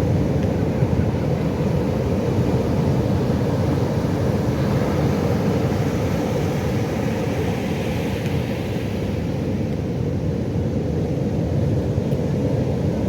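Pacific Ocean surf: a steady low rumble of waves, with one wave washing in midway, its hiss rising and then fading.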